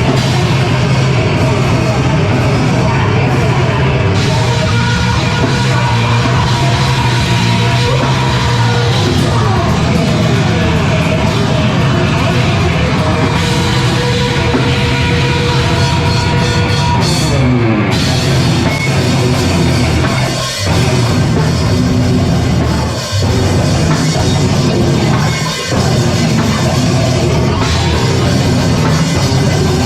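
A heavy rock band playing live at full volume, with distorted guitars and a drum kit. The playing drops out for a moment three times in the second half.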